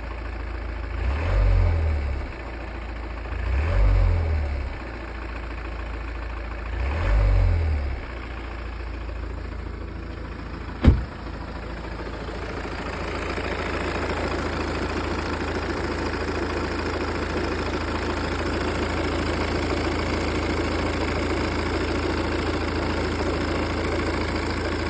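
Volvo V40 D2 diesel engine idling, blipped briefly three times in the first eight seconds, with a sharp click about eleven seconds in, then running steadily and a little louder. It carries a rattle that appeared after a clutch and flywheel replacement, and the owner is asking what causes it.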